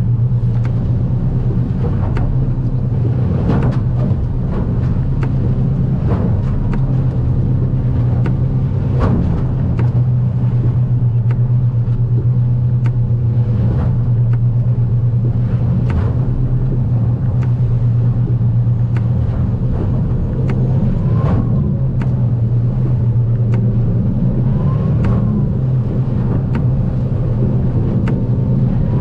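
Outboard engine running steadily under way as a low drone, with frequent sharp slaps and knocks as the aluminium hull pounds through rough swells and spray hits the cabin.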